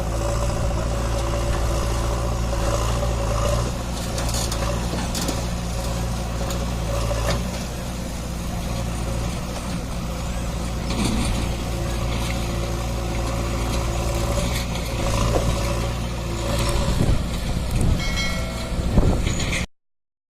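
Mahindra 595 DI tractor's four-cylinder diesel engine running steadily, with a few knocks and rattles near the end before the sound cuts off suddenly.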